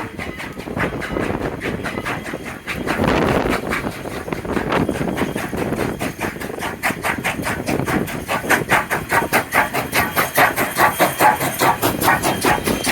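Strasburg Rail Road's 2-6-0 steam locomotive No. 89 pulling away, with steam hissing, then settling about halfway into a regular exhaust chuff of roughly three to four beats a second that grows louder.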